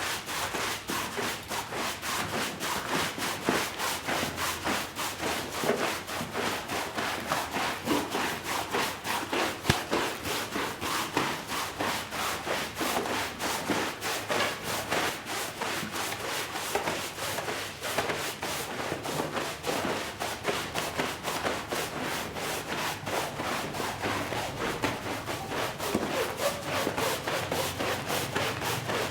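Brush scrubbing a wet shag rug in quick, rhythmic back-and-forth strokes, several a second, bristles rubbing through the pile.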